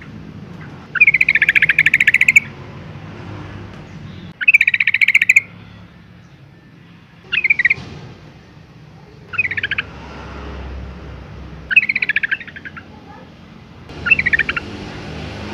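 Yellow-vented bulbul calling: six short phrases, each a rapid run of notes, repeated every two to three seconds. These are a female's calls, the kind used to lure male bulbuls into singing.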